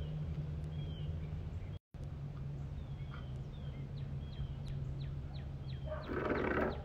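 A bird calling in short, falling chirps, about two a second, over a steady low hum. The sound cuts out completely for a moment about two seconds in, and a short burst of noise comes near the end.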